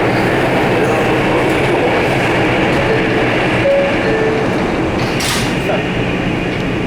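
New York City 6 train subway car running, heard from inside the car: a loud, steady rumble and hiss of wheels on rail, with a short high hiss about five seconds in.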